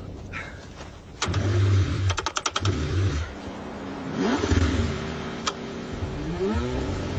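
Car engine being cranked in freezing cold: the starter grinds in uneven bursts with rapid rattling, and twice the engine note rises briefly as it tries to catch.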